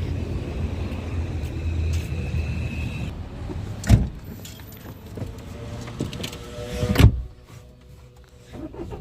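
A steady low rumble for about three seconds, then two loud sharp knocks about three seconds apart.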